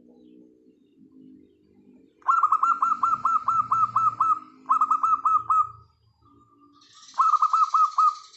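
Zebra dove (perkutut) calling: faint low cooing at first, then three loud runs of rapid, repeated down-slurred notes, each run cutting off after one to two seconds.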